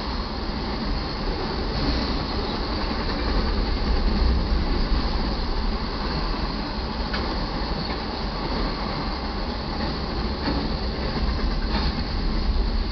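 Auto carrier train's rail cars rolling past: a steady rumble of steel wheels on rail, with a few faint sharp clicks.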